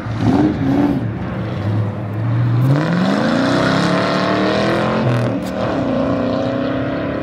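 A car engine revving hard: its pitch climbs about two seconds in and holds high, drops briefly near five seconds, then rises again.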